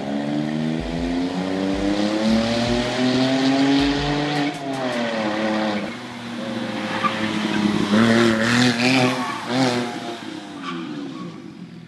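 Gemballa Avalanche 650 Evo's twin-turbo flat-six being driven hard. The engine note rises for about four seconds, falls sharply with a few short crackles as the throttle comes off, then climbs again, with tyres squealing as the car slides before the sound fades away.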